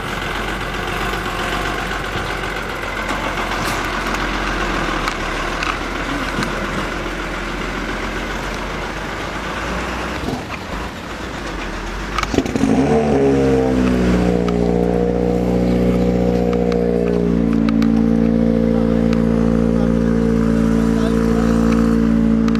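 A rally truck's engine. For the first dozen seconds there is a rough mix of engine and background noise. About halfway through, a loud, steady engine note comes in, sags a little in pitch and then holds.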